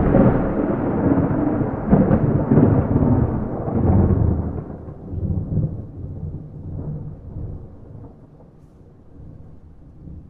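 Thunder rolling with no rain: a loud, deep rumble that swells several times in the first few seconds, then slowly dies away to a low rumble.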